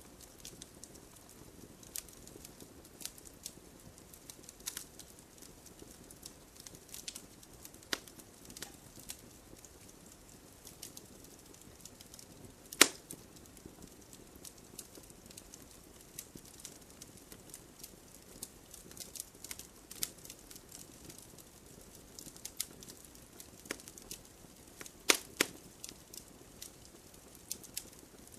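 Wood campfire burning with a soft hiss and scattered sharp crackles and pops from the burning logs, the loudest pop about halfway through and two close pops near the end.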